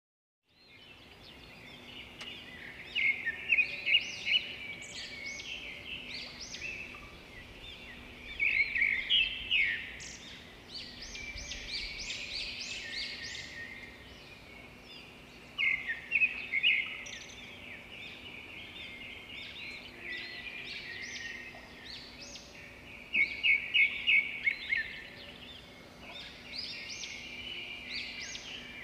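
Birds chirping and singing, with louder bursts of quick repeated high notes every several seconds over steady background chatter.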